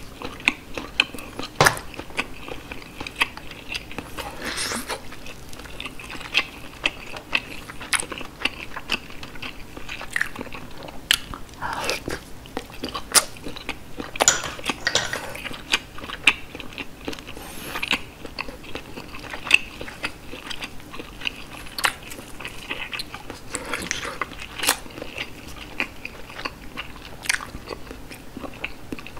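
Close-miked chewing of steamed whole sea snail meat, with many short sharp mouth clicks scattered irregularly.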